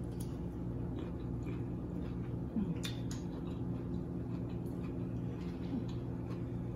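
Mouth sounds of someone chewing food dipped in seafood boil sauce, with scattered short wet clicks, the strongest about three seconds in, over a steady low hum.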